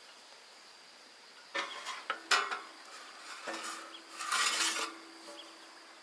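Iron bars clanking against each other: a few sharp metal knocks from about a second and a half in, one leaving a lingering ring, then a half-second metallic scrape a little past the middle.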